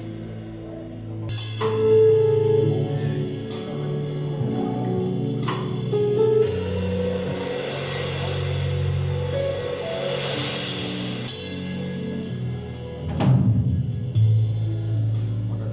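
Live worship band playing instrumentally: drum kit with cymbal crashes over held bass notes and sustained keyboard chords.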